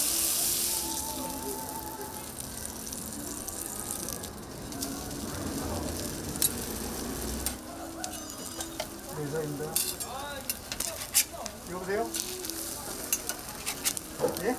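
Food sizzling as it fries on a flat-top griddle, with sharp clicks and taps of metal utensils that come more often in the second half. A running tap cuts off within the first second.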